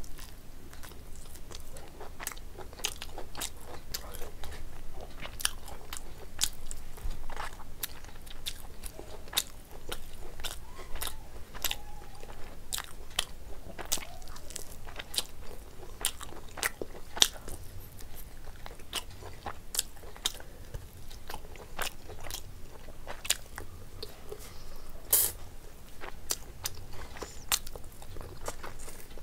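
A person biting and chewing curried meat eaten by hand: a steady run of sharp mouth clicks, several a second, with a few louder ones partway through.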